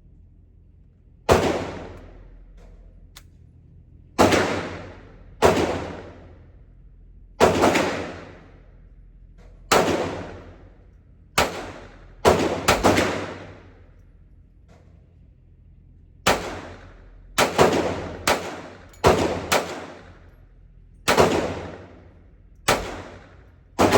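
Glock 19 9mm pistol firing about seventeen shots at an uneven pace, some singly a few seconds apart and some in quick doubles and triples. Each shot has an echoing tail.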